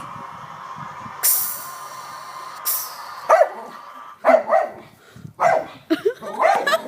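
A fluffy pet dog barking repeatedly in short sharp barks. The barking starts about three seconds in.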